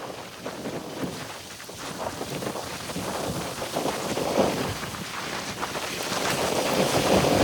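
Wind rushing over the microphone of a moving Bajaj Pulsar RS200 motorcycle, with its single-cylinder engine running faintly underneath. The sound grows louder toward the end as the bike picks up speed.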